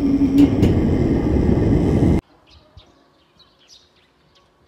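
Gas stove burner going full under a large stockpot just after lighting: a loud, steady low rush with two sharp clicks in it, which cuts off suddenly about two seconds in. After that there are faint bird chirps.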